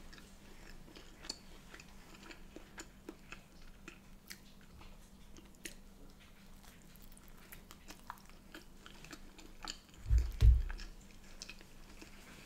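Close-up chewing and biting of a crusty bread bun with egg yolk, with small wet mouth clicks throughout. About ten seconds in come two dull thumps, the loudest sounds.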